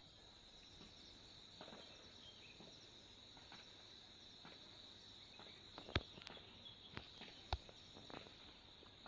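Faint, steady, high-pitched chirring of insects, such as crickets. Scattered sharp clicks run over it, and the loudest two come about six and seven and a half seconds in.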